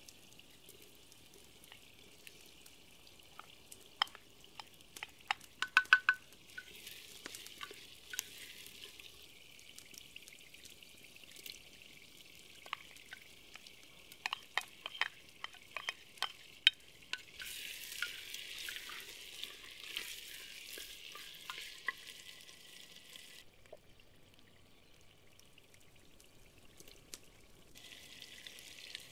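Diced potatoes and then chopped tomatoes sizzling as they are pushed into a hot pot. Sharp knocks and scrapes of a wooden spoon against the plate and pot come in two clusters, then the sizzle grows louder for a few seconds and settles.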